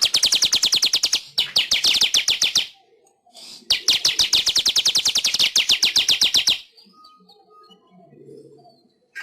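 Manyar weaver bird singing: two long runs of rapid, evenly repeated chattering notes, each lasting about three seconds with a short break between them, then only faint scattered sounds near the end.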